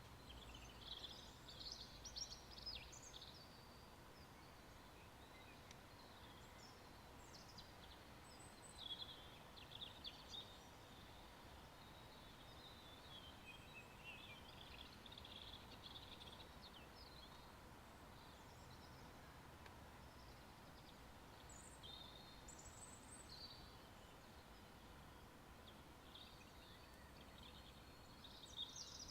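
Near silence with faint, scattered bird chirps and snatches of birdsong.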